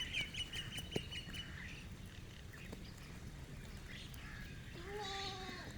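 Chickens at feed: a quick run of high chirps over the first second and a half, scattered light clicks, and near the end one drawn-out hen call, about a second long, falling slightly in pitch.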